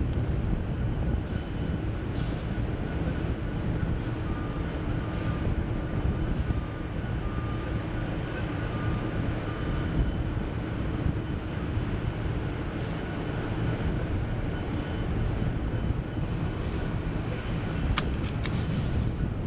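Steady low rumble of heavy engines idling, with a few sharp clicks near the end.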